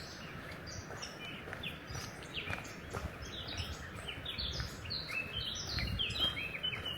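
Songbirds singing in a forest: a busy run of short, quick chirps and trills that grows denser through the second half. Occasional footsteps on the path tap underneath.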